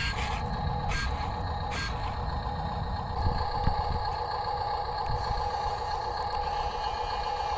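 Small electric motors of a radio-controlled model excavator and dump truck running with a steady whine over a low rumble, with a few light clicks in the first two seconds.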